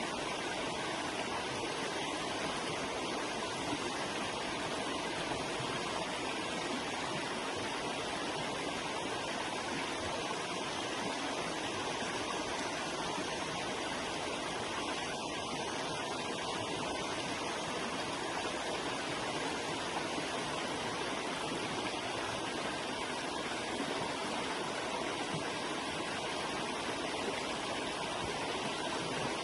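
Forest river flowing, a steady even rush of water.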